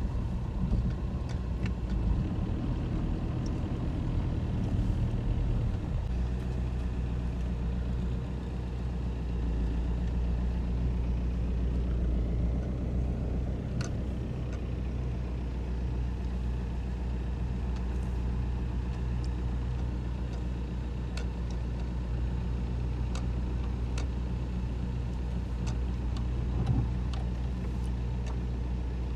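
A motor vehicle's engine running steadily, a low hum whose pitch shifts slightly about six seconds in.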